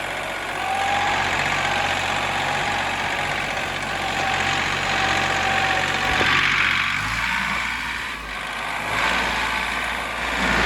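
John Deere 3038E compact tractor's three-cylinder diesel engine running steadily as the tractor moves forward in low range on its pedal-controlled hydrostatic drive. A faint steady whine sits over the engine for the first half, and the engine's low note changes about seven seconds in.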